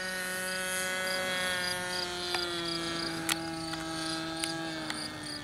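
Nitro glow engine of an RC model Cessna 177 running steadily in flight, its pitch slowly dropping as it flies past, with a single sharp click about three seconds in.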